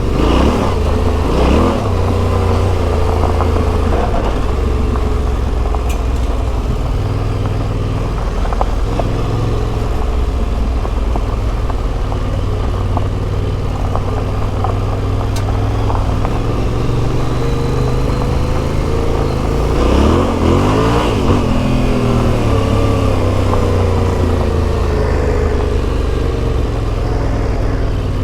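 Yamaha Ténéré 700's CP2 parallel-twin engine through an Akrapovic exhaust, running under way at a steady throttle. The engine pitch sweeps down and back up right at the start and again about twenty seconds in.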